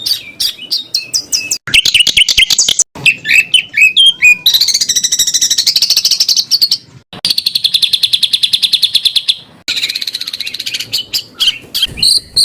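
Songbird song in the dense 'tembakan rapat' style: fast runs of sharp, rapid-fire notes and trills. It comes in several blocks that break off abruptly, with a long, even, fast trill in the middle.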